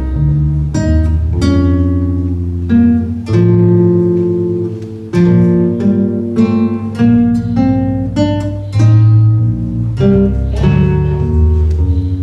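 Acoustic guitar played solo: a run of plucked notes and chords over low bass notes, each note ringing and dying away before the next.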